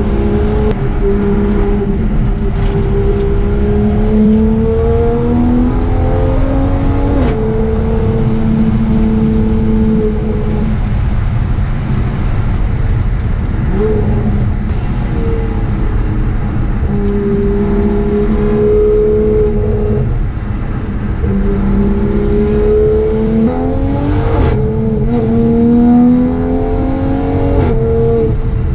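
Toyota Supra (A90) race car's engine heard from inside the cabin under hard driving, its pitch climbing steadily and then dropping sharply at gear changes, about seven seconds in and several times in the last third.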